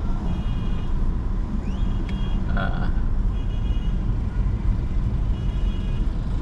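Car driving in traffic: a steady low engine and road rumble. A few short, high, beep-like tones come every couple of seconds.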